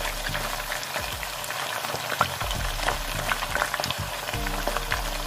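Chicken wings frying in shallow oil in a pan, the oil sizzling steadily with many small pops and crackles.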